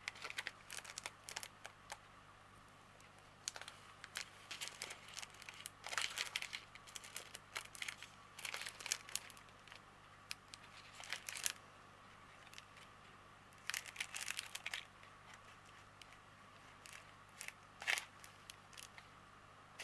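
Small plastic bags of diamond painting drills crinkling as they are handled, in scattered short rustles with pauses between.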